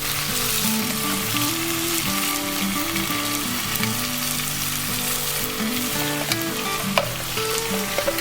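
Food sizzling steadily in a hot pan, with a few sharp utensil clicks, one about seven seconds in, over a quiet background melody.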